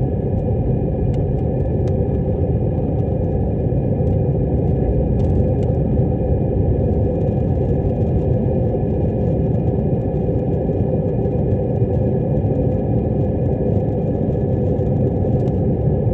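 Airplane engines running at takeoff power: a loud, steady rumble with a faint steady whine above it.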